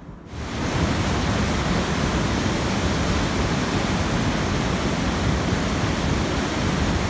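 A steady rushing hiss that starts abruptly just after the start and holds level throughout.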